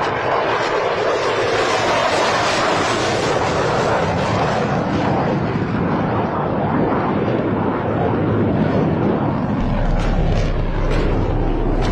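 Airplane engines running loud and steady, an even rushing roar. Near the end a low hum joins it, along with a few short clicks.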